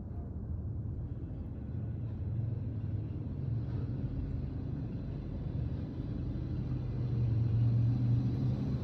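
Low, steady rumble that grows louder in the last few seconds.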